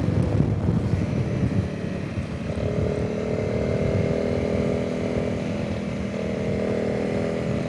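Honda CRF300 Rally's single-cylinder engine running at a steady pace on the road, heard from the rider's position under a rumble of wind noise. A steadier engine note comes in about two and a half seconds in and dips briefly near six seconds.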